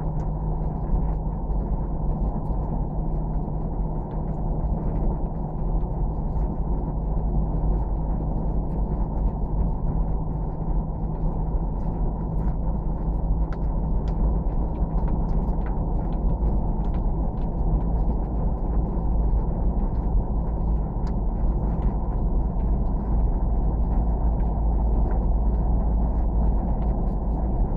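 Steady low rumble of engine and wind noise inside a moving vehicle, with a low hum that fades out about two-thirds of the way through.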